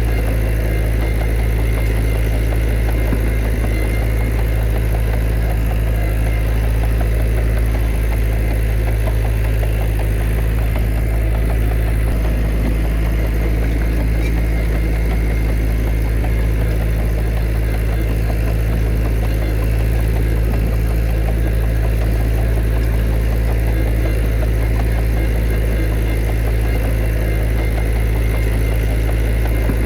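Heavy diesel engine of earthmoving machinery running steadily, with a deep, even low hum that does not change.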